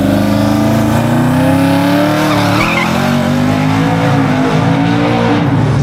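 Twin-turbocharged 2018 Ford F150 pickup's engine accelerating hard from a drag-strip launch. Its pitch climbs steadily and dips briefly at upshifts, about two seconds in and again near the end.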